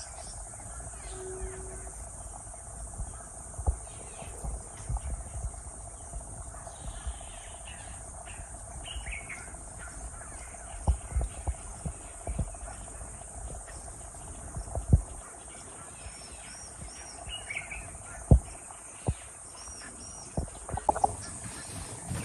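Bushland ambience: a steady high-pitched drone of crickets and other insects with a lower steady hum beneath, and scattered short bird calls and chirps throughout. A few brief low thumps come and go.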